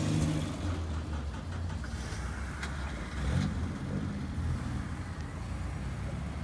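Classic car engines running at low speed as cars drive slowly past: a Morris Minor Traveller moving off, then a Lotus Seven-style open roadster driving up, with a short rise in engine pitch about three seconds in.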